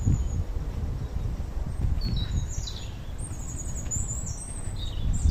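A songbird singing high, quick phrases of falling, stepped notes from about two seconds in, over a steady low rumble with soft thuds of footsteps on a forest path.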